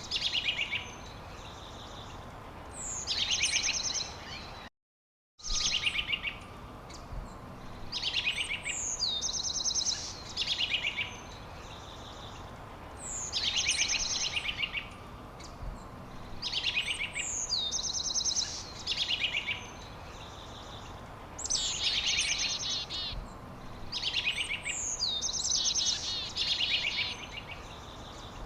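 A songbird singing the same short phrase over and over, about every two to three seconds: a high falling note, then a fast trill. A steady hiss runs underneath, and the sound cuts out completely for under a second about five seconds in.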